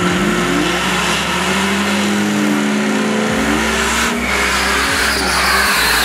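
A high-powered drag car revving hard, its pitch rising and falling, over a steady hiss of tyre noise, as in a burnout.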